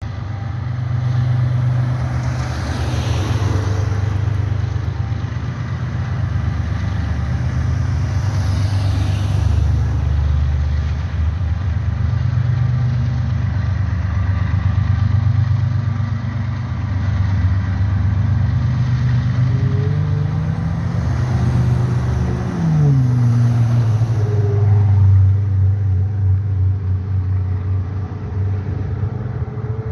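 Diesel train engines running with a loud, steady low drone; the engine pitch drops about two-thirds of the way through.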